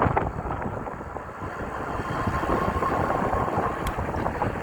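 Wind rushing over the microphone and rumbling road noise from a moving e-bike ridden on throttle, with a faint steady whine from the electric motor through the middle.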